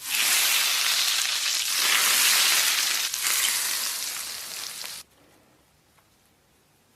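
Hot oil poured over minced scallion, garlic and chili flakes, sizzling loudly and easing a little before it stops abruptly about five seconds in.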